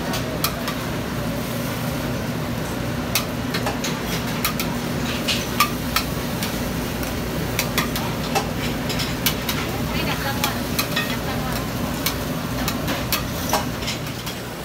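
Oyster omelettes sizzling on a large griddle, a steady frying hiss, with frequent irregular clicks and scrapes of a metal spatula on the pan.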